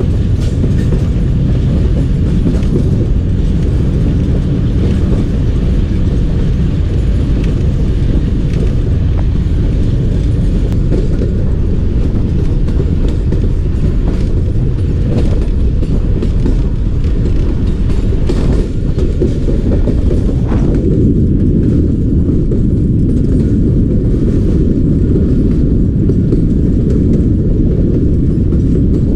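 Passenger train running along the track, heard from an open coach window: a steady, loud rumble of wheels on rails, with a few faint clicks in the middle.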